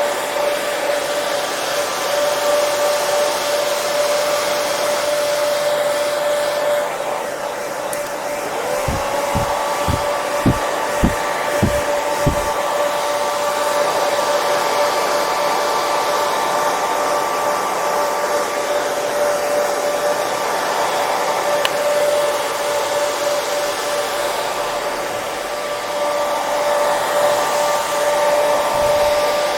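Hair dryer running steadily: a continuous airy rush with a constant motor hum. A short run of about seven low pulses comes about nine to twelve seconds in.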